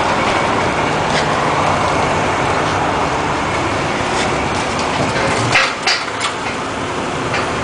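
Steady mechanical rumble of a car repair shop, with a few sharp metallic knocks about two-thirds of the way through.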